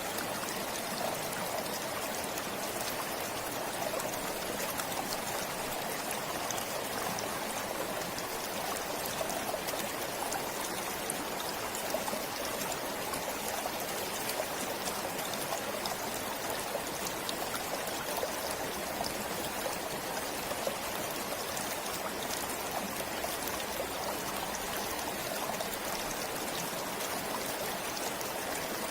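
Forest stream flowing steadily, a continuous rushing and trickling of water over stones.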